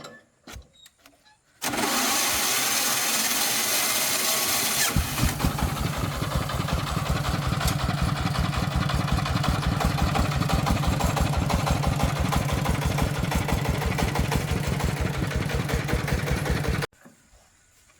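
Agricultural logging truck's diesel engine starting: a loud hissing whir of cranking for about three seconds, then the engine catches and runs with a rapid, even chugging. The sound cuts off abruptly about a second before the end.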